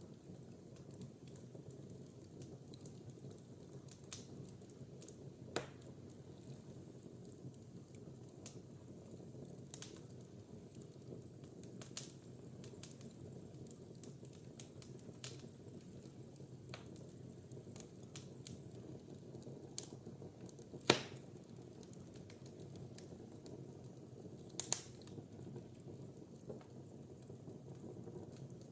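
Wood fire burning in a fireplace: a steady low rushing with scattered sharp crackles and pops, two of them loud in the later part.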